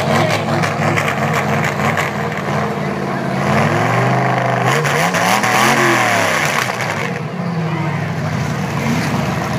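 Demolition derby cars' V8 engines idling, with one engine revved up and back down in the middle.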